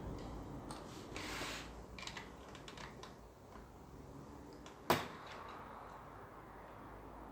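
A few small clicks and a brief rustle, then one sharp click about five seconds in.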